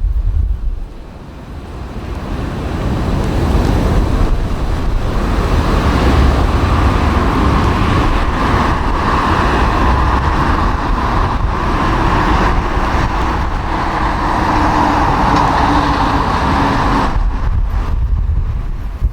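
Jet airliner on final approach passing low overhead. The engine noise swells over the first few seconds, then holds as a steady whine that sinks slightly in pitch over a low rumble, and cuts off suddenly near the end.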